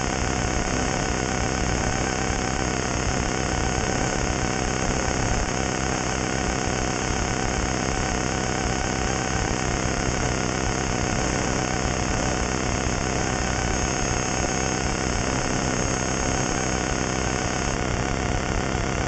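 Historic Ford Escort rally car's engine idling steadily, heard from inside the stripped-out cabin.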